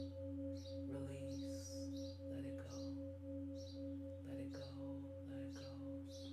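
A singing bowl ringing on in a long steady tone, with birds chirping over it in short calls that repeat every second or so.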